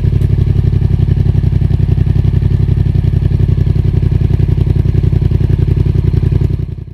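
Yamaha MT-07's parallel-twin engine idling through a Roadsitalia Special Carbon aftermarket exhaust, a steady, even beat of exhaust pulses at constant pitch. The sound dies away near the end.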